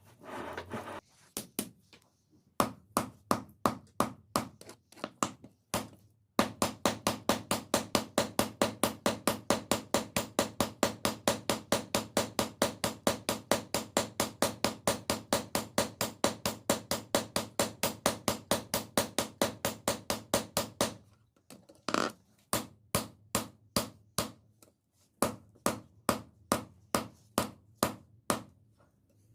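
Hammer blows on steel while forging a knife blade: spaced strikes about two a second, then a long fast run of about five a second, then spaced strikes again for the last several seconds.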